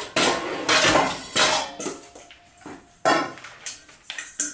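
Bowls and kitchenware clattering as they are handled and set down: a series of knocks and clinks, some with a brief ring.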